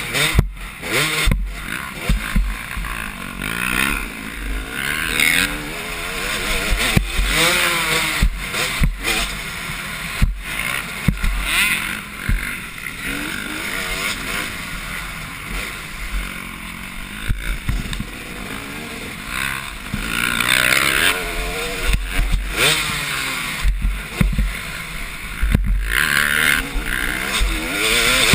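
Motocross bikes, largely 250 two-strokes, racing around the track, their engines revving up and dropping off again and again as several riders pass and overlap.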